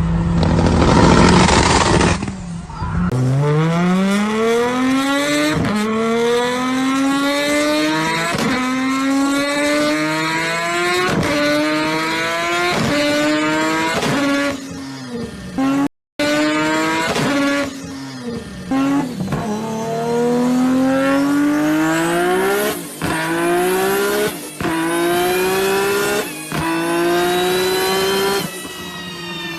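A high-revving vehicle engine accelerating hard, its pitch climbing and dropping back again and again as it shifts up through the gears. It opens with a couple of seconds of loud noisy rushing, and the sound cuts out briefly about halfway through.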